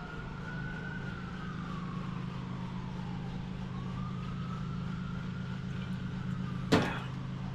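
A siren wailing, its single tone slowly rising and falling, over a steady low hum. A short knock comes near the end.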